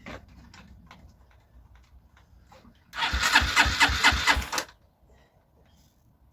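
Honda CG125's electric starter cranking the single-cylinder engine in a rhythmic burst of under two seconds, about three seconds in. The engine turns over without catching, as the battery runs flat. A few faint clicks come before it.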